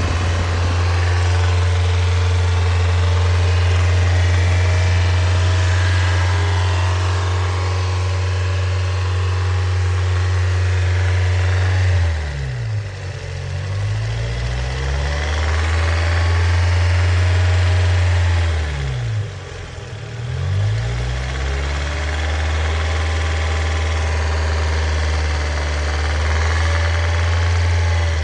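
Mazda NB Miata 1.8 VVT four-cylinder engine idling steadily, then revved up and let fall back to idle twice in the second half. The owner hears an odd valvetrain noise in it.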